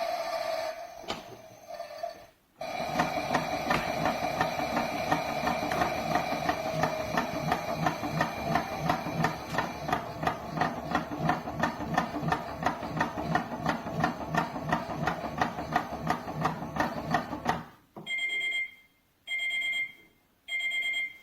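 Theo Klein Miele toy washing machine playing its built-in washing sound through its small speaker: a steady hum with a fast, even pulsing that cuts out briefly near the start. Near the end come three short electronic beeps, the signal that the program has finished.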